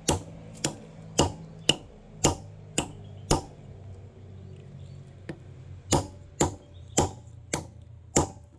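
Hammer striking a large chunk of milky quartz in sharp, rapid blows, about two a second: seven strikes, a pause, then five more.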